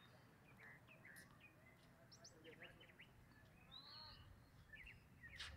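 Faint outdoor ambience with scattered short bird chirps, and a single sharp knock near the end.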